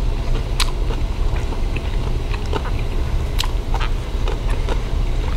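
Close-miked chewing, with scattered sharp wet mouth clicks and smacks every second or so over a steady low hum.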